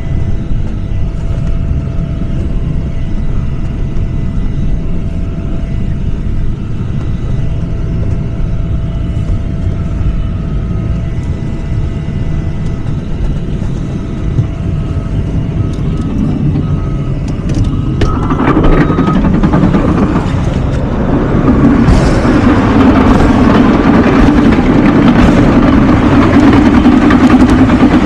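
Garbage truck's diesel engine running, with steady low rumble; about 18 s in it gets louder and fuller, as if working harder, and stays up.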